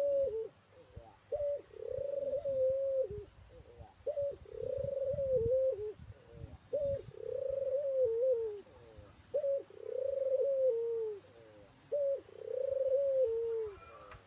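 Puter turtle dove cooing over and over: each phrase a short clipped note followed by a long drawn-out coo that drops in pitch at the end, repeated about every two and a half seconds. Faint high chirps of small birds in the background.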